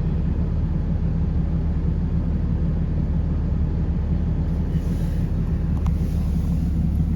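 An engine running steadily at an even speed with a low, constant hum.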